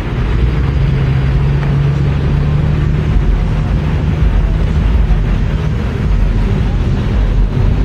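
A motor vehicle engine running steadily close by: a low rumble with a steady hum that is strongest in the first few seconds and fades after about six seconds.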